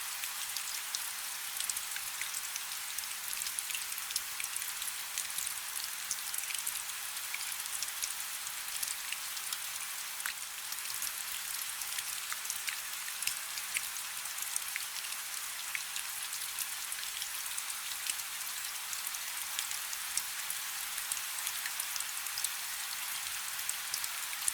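Light rain falling steadily: a soft even hiss with many small, sharp raindrop ticks scattered through it.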